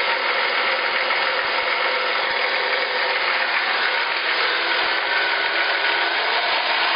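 Ford F-150's 4.9-litre inline-six engine idling steadily, making a noise that the owner can't tell apart as lifter knock or just its normal running sound.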